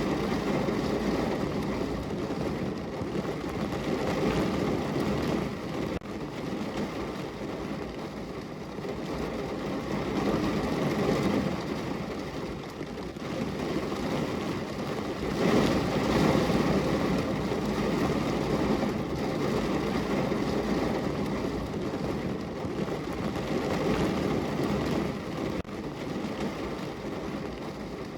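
Heavy rain falling on a car's roof and body, heard from inside the car: a dense, steady patter that swells heavier around ten seconds in and again around sixteen.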